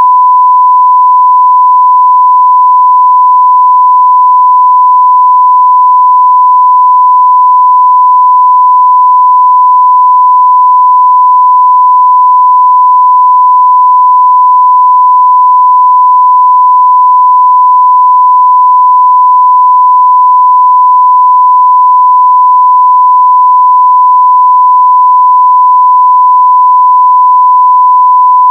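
A continuous 1 kHz sine-wave test tone at full scale (0 dB), one pure steady pitch with no change in level.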